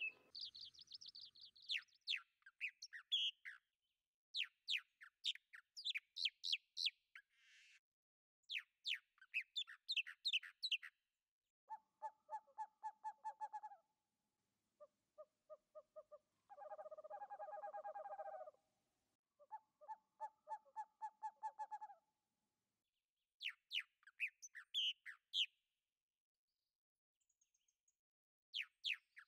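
Birdsong: trains of rapid, high chirps, with a run of lower, evenly pulsing calls in the middle, and silent gaps in between.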